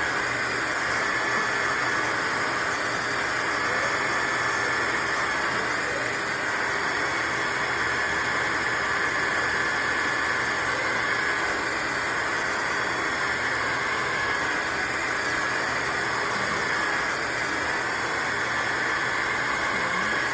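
Shark HydroVac MessMaster cordless wet-dry vacuum mop running steadily while scrubbing a stain. A constant motor hum and suction noise with a high whining tone over it.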